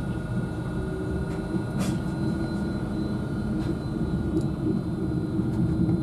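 Interior running noise of a Virgin Trains Class 390 Pendolino electric train pulling out of a station: a steady rumble with a thin, steady whine over it.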